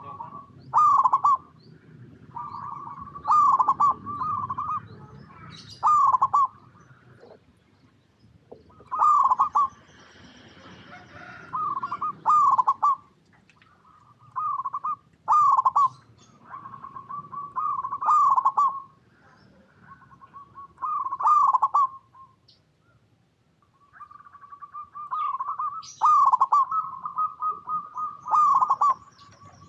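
Zebra dove (perkutut) cooing: repeated rhythmic phrases, each a held note running into a few quick dropping coos, every two to three seconds, with a short pause about two-thirds of the way through.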